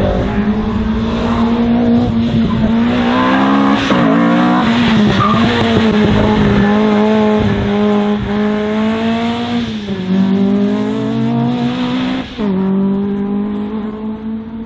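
Race car engine running hard through an autoslalom course, its note held fairly steady but dipping and climbing again about four, ten and twelve seconds in as the driver comes off and back onto the throttle, with some tyre squeal.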